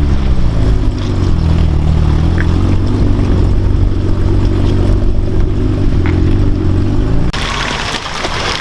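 Off-road truck engine whose revs drop right at the start, then run steadily at a lower speed. About seven seconds in, the engine note cuts off abruptly into a loud rushing, splashing-type noise.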